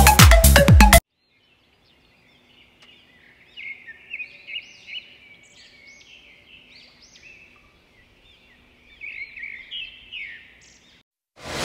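Songbirds chirping and singing in quick runs of short, arching notes, with a faint steady hum underneath. Electronic dance music plays for the first second, then stops, and comes back just at the end.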